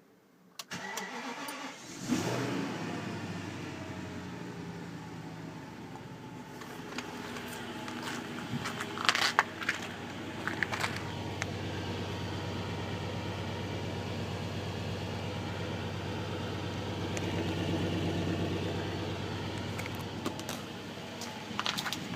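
BMW X5 E53's 4.4-litre M62TU V8 cold-starting at −10 °C: the starter cranks for about a second, the engine catches with a flare near two seconds in, then runs on at a steady cold idle. A few sharp clicks stand out about nine to eleven seconds in.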